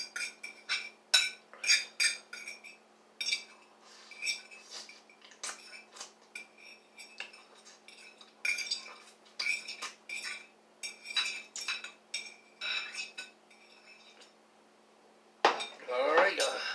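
An eating utensil clinking and scraping against a bowl of ramen noodles, in irregular runs of quick taps that each ring briefly. The taps thin out a little past the middle and stop near the end.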